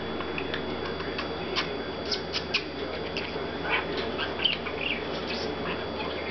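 Pet parakeet chattering excitedly, a rapid jumble of short chirps, clicks and mumbled mimicked words.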